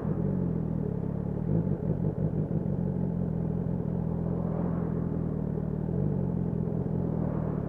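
BMW S1000R's inline-four engine running at a fairly steady pitch during a ride.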